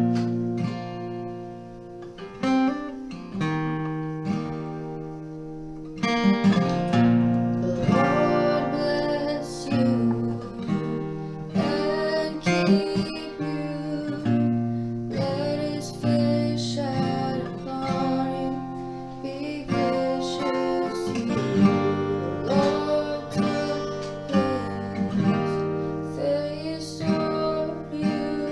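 A song played from a recording: strummed acoustic guitar, with a singing voice coming in about six seconds in.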